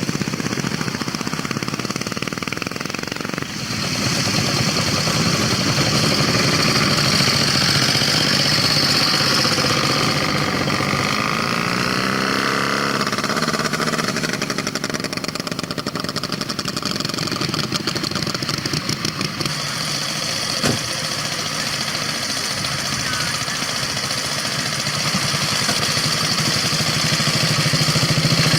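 Vintage motorcycle engines running, with one engine's note rising briefly near the middle as it is revved.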